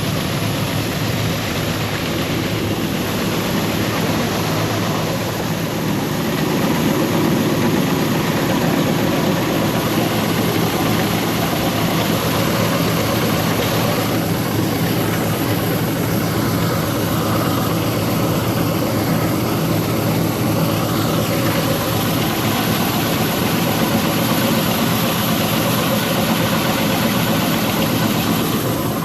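Combine harvester engine and threshing machinery running steadily under load, getting slightly louder about seven seconds in.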